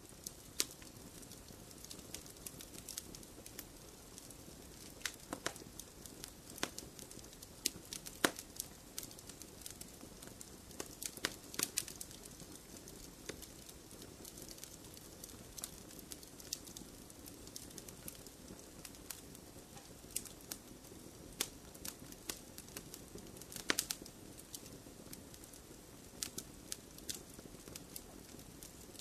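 Wood fire burning in a fireplace: a soft steady rush of flames with irregular crackles and sharp pops, the loudest pops about 8, 12 and 24 seconds in.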